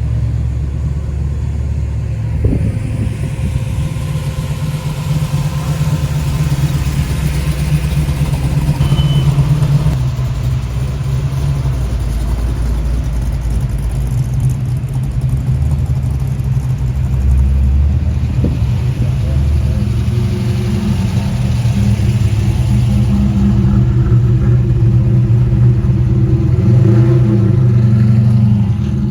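Car engines running with a low, steady rumble, with people's voices in the background.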